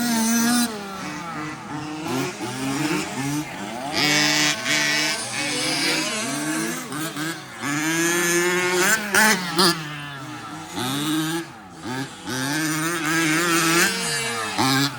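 Several radio-controlled 4WD race trucks running together, their motors whining up and down in pitch as they accelerate and back off, with short bursts of hiss from the tyres.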